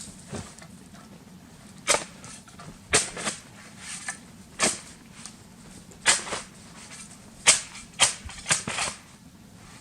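Boots stamping and shuffling in snow to pack it level: about a dozen sharp crunches at uneven intervals, several in quick pairs.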